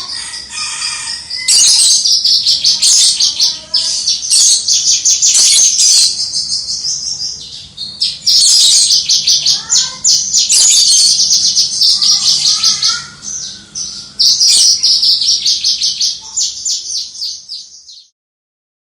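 Javan bushlark singing a long, rapid, high-pitched song in dense phrases with brief pauses, cutting off suddenly near the end.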